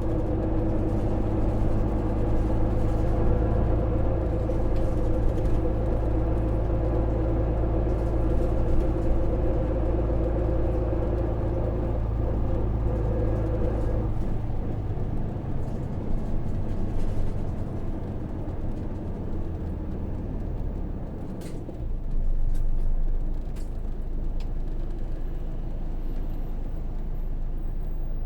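Engine and running noise inside a Hino PJ-KV234L1 city bus with a 6HK1 diesel engine: a steady drone under power, which falls away about halfway through as the bus eases off, followed by a short louder burst about two-thirds of the way in.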